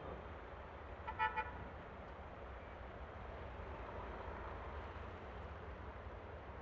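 A vehicle horn gives a short double beep about a second in, over the steady low engine and road noise of a Yamaha Aerox scooter on the move.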